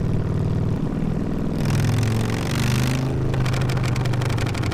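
Harley-Davidson motorcycle exhaust heard while riding. The steady engine note drops in pitch about a second in as the bike eases off, a rushing hiss comes up briefly around two seconds in, and the engine then runs on steadily at a lower pitch.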